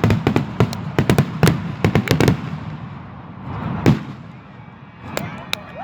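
Fireworks display: a rapid barrage of aerial shell bangs in the first couple of seconds, thinning out, then one loud bang about four seconds in and a few faint pops near the end.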